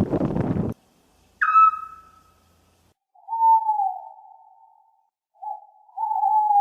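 Owl calls: a short, sharp call dropping slightly in pitch, then two long whistled hoots that sag a little in pitch, with a brief note between them. Windy background noise cuts off abruptly under a second in.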